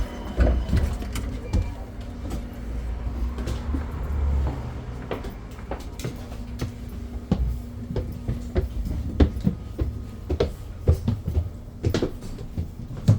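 Inside a BYD BD11 battery-electric double-decker bus: a low rumble with a faint steady hum, and frequent sharp rattles and knocks from the bus body and fittings.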